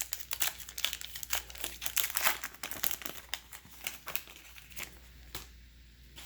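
Plastic wrapper of a baseball card pack being torn open and crinkled by hand: dense, irregular crackling that stops about five and a half seconds in.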